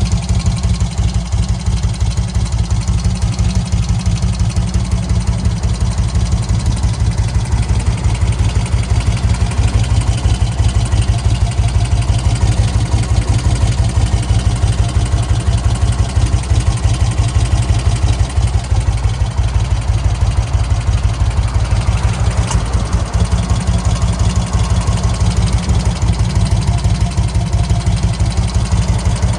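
1991 Magni Sfida 1000's air-cooled Moto Guzzi V-twin idling steadily, an even beat of exhaust pulses.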